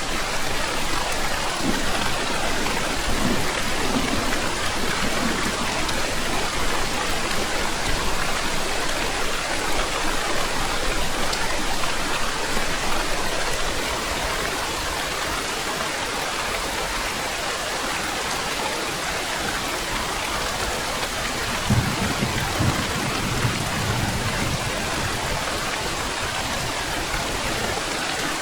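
Heavy rain falling steadily, with low rumbles of thunder a couple of seconds in and again near the end.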